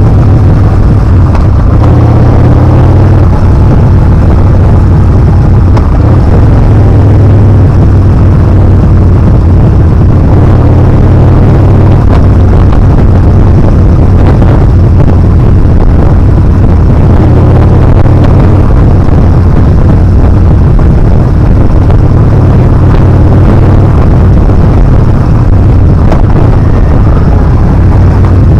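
Yamaha Bolt R-spec's air-cooled V-twin engine running steadily while the motorcycle is ridden along a winding downhill road, its pitch shifting a little with the throttle, mixed with wind rushing over the camera microphone.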